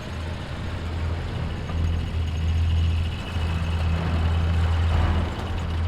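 A loud, steady low droning rumble that dips briefly a few times.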